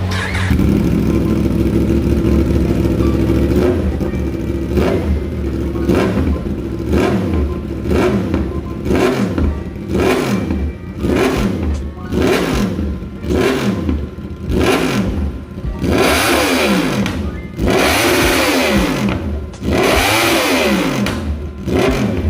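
2015 Yamaha YZF-R1's crossplane inline-four engine through an Austin Racing exhaust, idling steadily for a few seconds and then revved in short throttle blips about once a second, with a few longer, higher revs near the end. The engine has just been through a combustion-chamber carbon clean.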